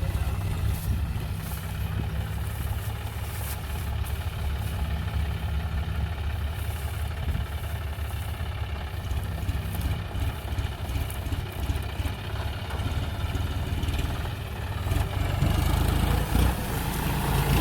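Diesel engine of farm machinery running steadily, growing louder about fifteen seconds in.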